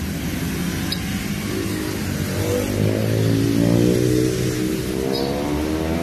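A motor vehicle's engine accelerating, its pitch climbing for a couple of seconds and easing off, then climbing again near the end, over steady traffic noise.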